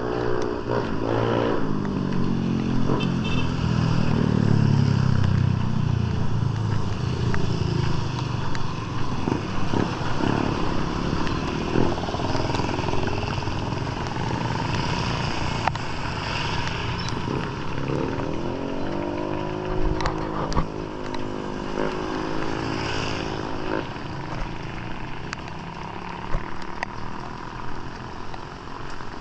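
Motor vehicles passing on the street, likely motorcycles. The engine note of the first falls in pitch as it goes by during the first few seconds, and a second one rises and then falls again later, over a steady background hiss.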